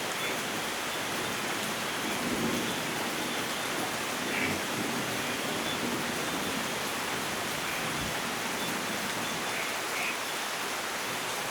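Steady rain with faint low rumbles of thunder now and then.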